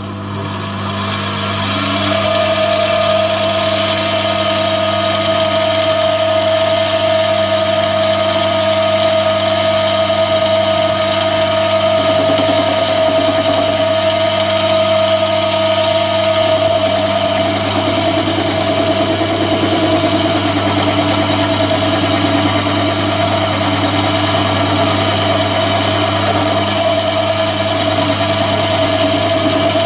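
Chinese mini lathe running steadily with its motor and gear-train whine, coming up to speed in the first couple of seconds, while a high-speed steel tool faces off the rough end of a part.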